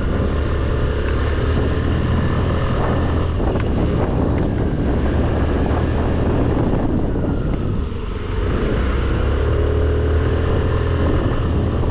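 Scooter engine running under way, with wind and road noise; the engine note eases off briefly about eight seconds in, then picks up again.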